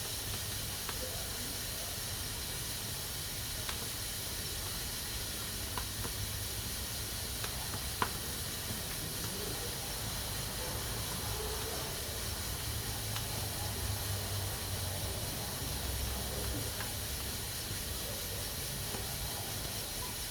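Pressure cooker hissing steadily as steam escapes through its valve, with a few faint clicks, one sharper about eight seconds in.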